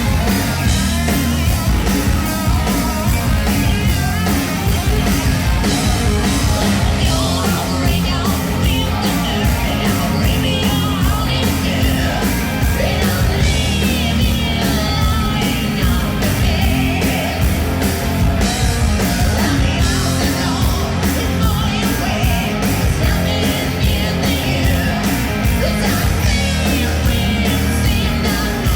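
Live hard rock band playing: two distorted electric guitars, bass and driving drums, with a male lead singer shouting and singing over them. The recording is overdriven, with clipping distortion on the kick drum and loud bass notes.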